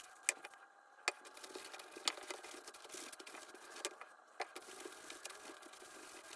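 Hands working on a small top-grain cowhide baseball glove during its cleaning and re-lacing: a light rustling of the leather with scattered sharp clicks and taps, roughly one a second.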